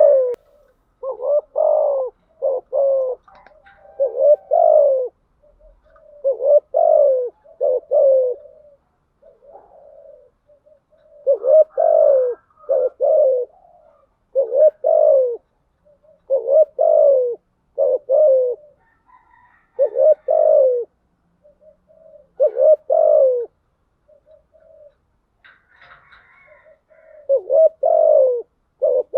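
Spotted dove cooing: short phrases of two or three low, slightly falling coos, repeated every couple of seconds. It is the dove's calling coo, played as a decoy to rouse caged doves.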